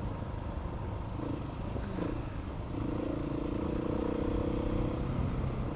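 Motorcycle engine running while riding along a dirt track, with a steady low rumble. The engine note holds steadier and slightly louder from about three seconds in.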